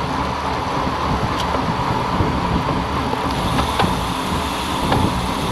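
Steady rush of wind and road noise on the microphone of a camera riding along on a moving bicycle, with a few faint clicks.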